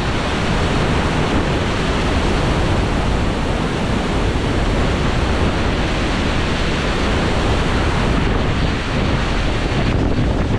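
Powerful waterfall at close range: a loud, steady rush of falling water, with its wind and spray buffeting the microphone.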